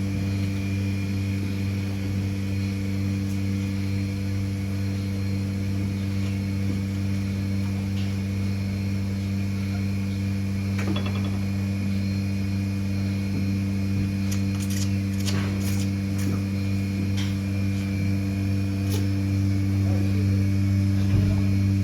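A steady low machine hum, with a few faint clicks and knocks in the second half.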